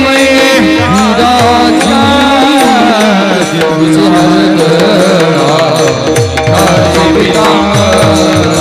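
Marathi devotional abhang music: pakhawaj drumming, its bass strokes bending down in pitch, under a wavering melodic line, between sung verses. A steady high ringing tone runs above it.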